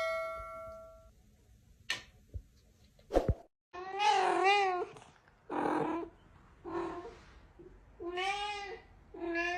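A ringing, bell-like tone fades out over the first second, with a couple of knocks after it. Then a cat meows five times, each a drawn-out, wavering call.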